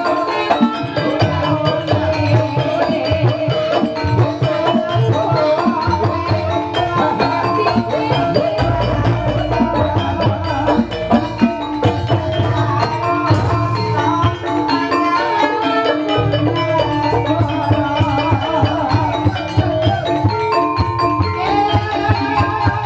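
Javanese gamelan music accompanying an ebeg dance: struck metal or bamboo keys play quick, busy melodic lines over a hand drum, with deep low strokes joining about a third of the way in.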